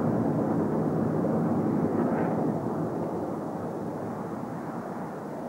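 Formation of BAE Hawk jets flying past, a steady jet rumble that slowly fades away over the second half.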